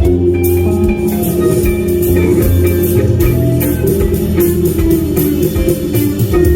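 Band music: guitar, bass guitar and drum kit playing an instrumental passage with no rapping over it.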